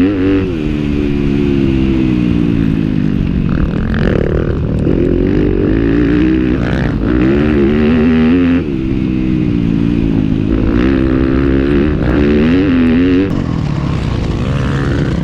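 Motorcycle engine running hard, its pitch climbing and dropping several times as it accelerates and shifts, with a big drop about eight and a half seconds in.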